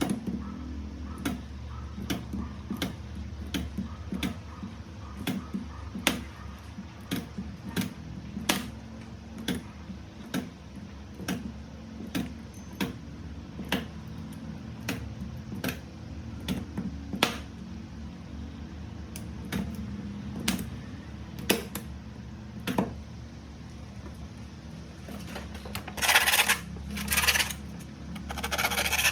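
Battery spot welder firing a steady run of sharp snaps as it welds nickel strip onto 18650 cells, about three every two seconds, slowing to a few scattered snaps after the middle. Near the end comes a few seconds of scraping.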